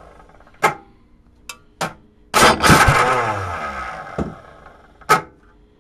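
A 10-horsepower Tecumseh small engine with an open exhaust being cold-started: a few sharp single cracks, then about two and a half seconds in a loud burst as it fires or cranks and winds down with a falling pitch, then two more cracks. It is trying to start but will not keep running.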